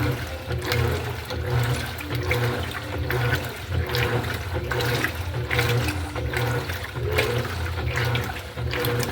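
Electrolux LED14 top-loading washing machine agitating a load in water: water churning and sloshing over a low motor hum that pulses in a steady rhythm.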